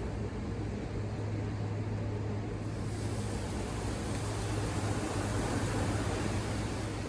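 Ocean surf washing in, over a steady low mechanical hum; the wash of the surf swells about three seconds in.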